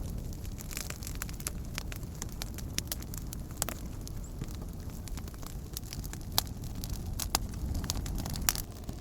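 Wood campfire crackling, with irregular sharp pops throughout, the loudest three in the second half, over a steady low rumble.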